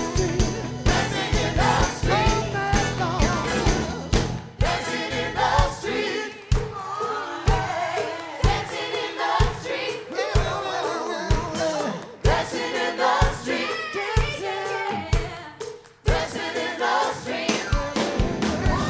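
Live soul band with a group of singers, choir-like backing voices over a steady drum beat. The bass drops out for stretches in the middle and the full band comes back in near the end.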